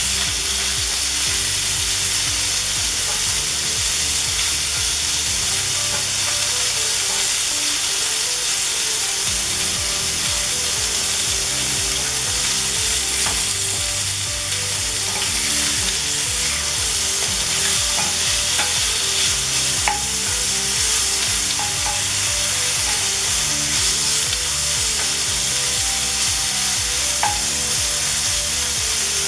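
Sausage meat and bacon sizzling steadily in oil in a cast iron skillet, stirred with a wooden spatula, with a few light taps of the spatula against the pan.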